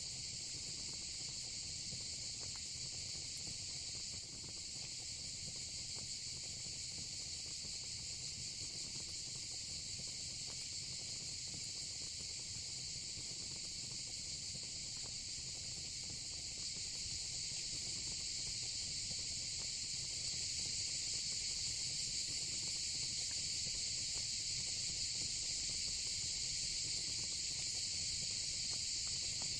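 Steady chorus of crickets and cicadas, a dense high trill that grows slightly louder after about 17 seconds, with a few faint crackles from a fire pit.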